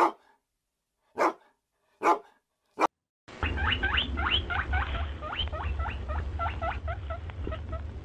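A dog barks four times, short and sharp, about a second apart. Then, about three seconds in, a fast run of high, rising squeaks begins, several a second, over a low rumble.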